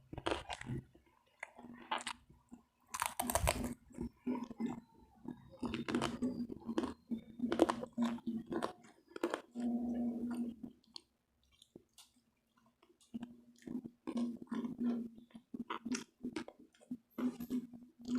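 Close-up chewing and crunching of crispy fried pork belly (lechon kawali), with irregular crackling bites. There is a short pause in the chewing about two-thirds of the way through.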